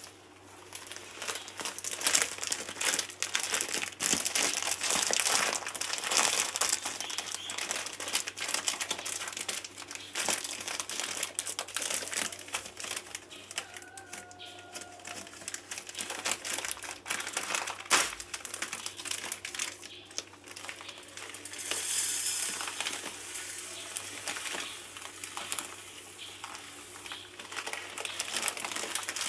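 Close, irregular crinkling and rustling of something being handled, in bursts throughout.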